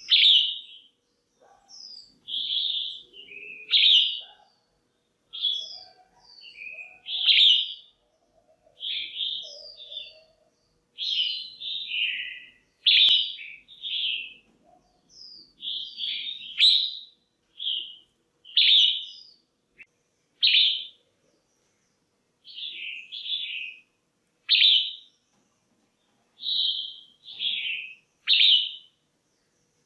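Female red-whiskered bulbul calling: short chirpy phrases repeated about once a second with brief pauses. These are the calls used to stir up male bulbuls or to pair birds.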